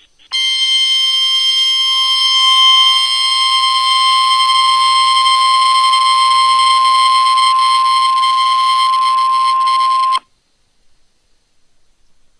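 Weather radio warning alarm tone: one loud, steady, high-pitched tone held for about ten seconds, starting just after the beginning and cutting off suddenly near the end. It signals that an alert broadcast, here a severe thunderstorm watch, is about to follow.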